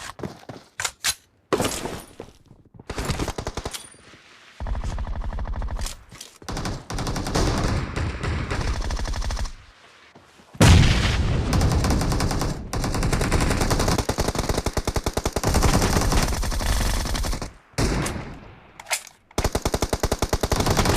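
Automatic gunfire in a shooter video game: several bursts of rapid shots with short pauses between them, the longest running about seven seconds from roughly halfway through.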